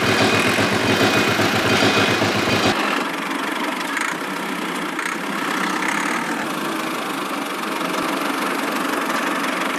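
Engine idling with a fast, even chugging. About three seconds in, the low chug cuts off abruptly, leaving a lighter, steady mechanical running sound.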